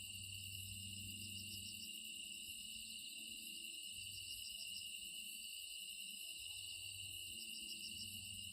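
Outdoor insect chorus: a steady high-pitched trilling with short bursts of chirping repeating every second or so, over a faint low hum that comes and goes.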